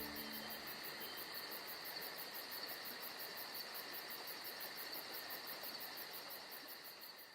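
Crickets chirring in a steady insect chorus, a high trill with a fast, even pulsing, fading out near the end.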